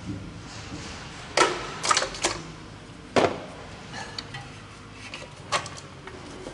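Sharp knocks and clicks of hard parts as the valve cover on a 5.7 L V8 is worked loose by hand: a cluster of loud knocks in the first half, the loudest about three seconds in, one more near the end, with lighter ticks between.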